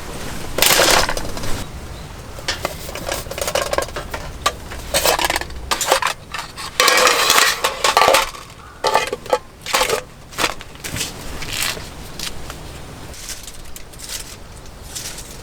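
Camp dishes, pots and cutlery clattering and scraping as they are handled and put away after a meal, in irregular bursts that thin out over the last few seconds.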